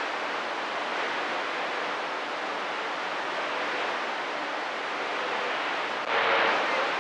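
CB radio receiver hissing with band static between transmissions. About six seconds in, the static jumps louder and stays up.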